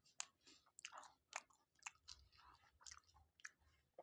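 Faint chewing of a mouthful of food, picked up by a lapel microphone: a string of soft, irregular clicks and smacks, a few each second.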